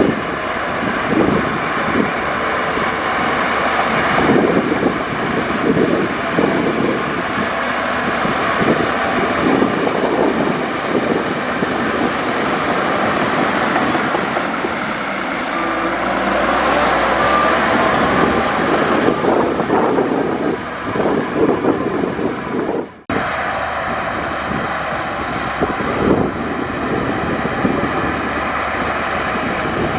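Heavy diesel earthmoving machinery working: engine noise running steadily throughout, with a brief dropout about two-thirds of the way through.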